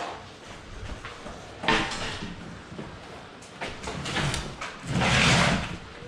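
Several short scraping and rustling bursts of things being handled and moved, the loudest near the end.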